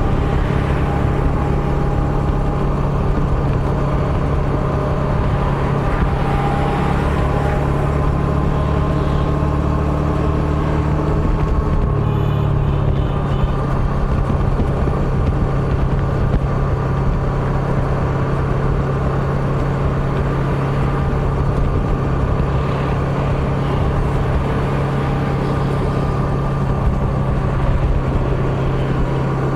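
Motorbike engine running steadily while riding through city streets, with a constant low hum over road and wind rumble. Its note dips and shifts slightly about twelve seconds in.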